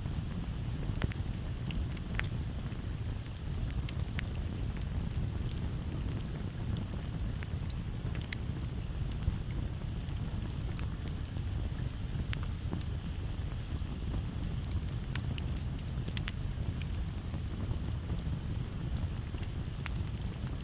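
Campfire crackling: frequent sharp pops and snaps over a steady low rumble, with crickets trilling steadily in the background.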